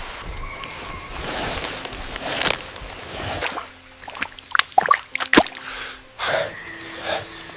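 Wet sloshing and squishing, as of water or mud being churned, with a quick run of sharp splashes about four to five and a half seconds in.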